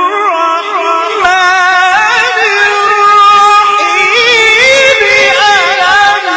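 A reciter's voice holding long, ornamented melismatic notes in Quranic recitation in maqam Kurd, the pitch wavering and turning through the phrase. A noisy hiss sits behind the voice from about a second in until near the end.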